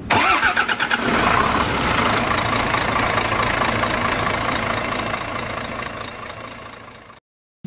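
Heavy truck engine running loudly, with rapid pulsing in the first second, then a steady rumble that slowly fades away.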